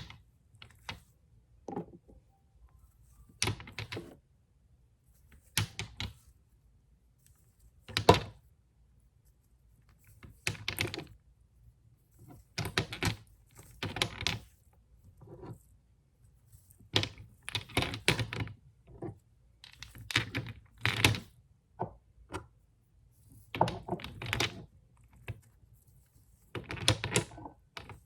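Fast tapping on glass nail polish bottles, in short bursts of quick clicks with brief pauses between them. A single louder knock comes about eight seconds in.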